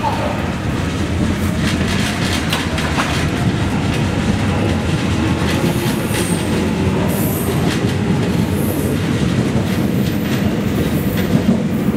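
Electric commuter train running past behind platform screen doors: a steady rumble with the wheels clattering over rail joints, and brief high wheel squeal around the middle.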